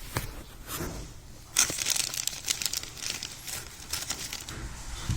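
Packaging crinkling and tearing, starting suddenly about a second and a half in as a busy run of rustles and crackles, thinning out near the end.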